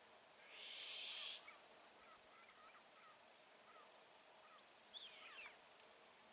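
Saffron finch calling faintly. A dense, buzzy high trill lasts about a second, then comes a run of soft chip notes, and about five seconds in a quick phrase of notes sweeps downward. A steady thin high tone runs underneath.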